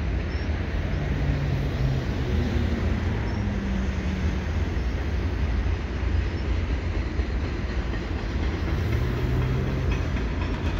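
Double-stack freight train's loaded well cars rolling past, a steady rumble of steel wheels on rail.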